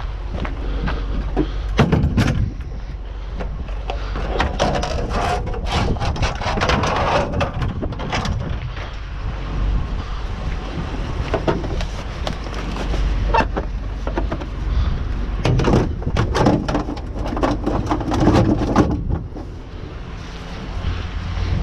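Scrap metal clanking and rattling as it is handled and thrown into a truck bed, many separate knocks and clatters, over a steady low rumble of wind on the microphone.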